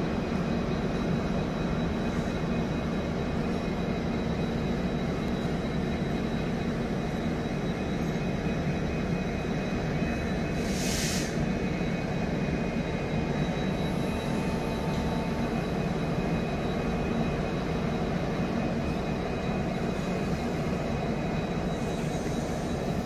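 Steady rumble and hum of an Indian Railways passenger train, heard from aboard, with a thin steady high whine over it. A brief hiss sounds a little over halfway through.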